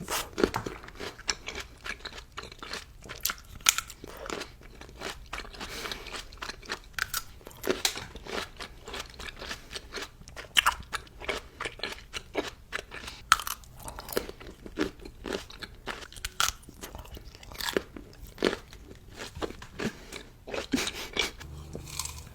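A person chewing and crunching food: dense, irregular crunches and wet mouth clicks with no pauses.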